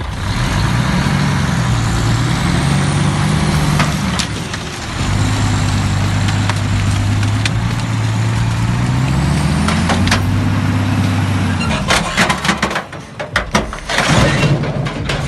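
Heavy truck or forestry machine engine working under load, its pitch rising and falling, with a faint high whine climbing twice. From about twelve seconds in, irregular knocks and rattles.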